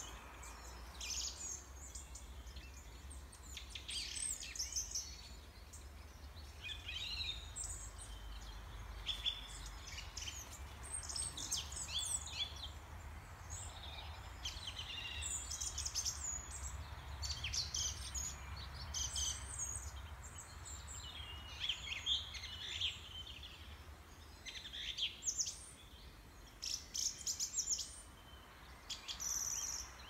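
Birds chirping and singing, many short calls scattered throughout, over a low steady hum.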